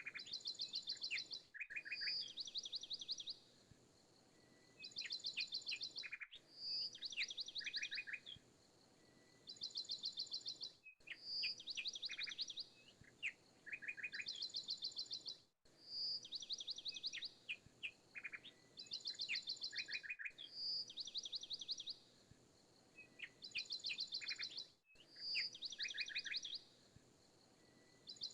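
Birdsong played as a repeating loop: the same short phrase of fast, high chirping trills comes round about every four and a half seconds, with a brief gap between repeats.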